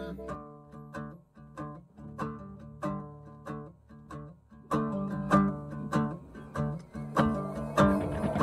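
Music: a plucked string instrument strumming rhythmic chords, about two strokes a second, growing louder about five seconds in.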